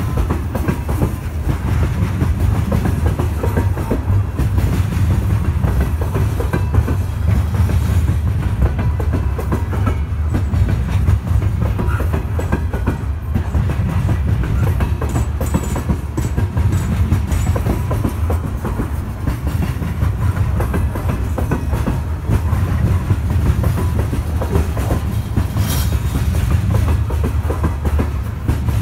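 Coal hopper cars of a freight train rolling past close by: a steady low rumble of steel wheels on rail with a continual clickety-clack over the rail joints. A brief high squeal cuts through near the end.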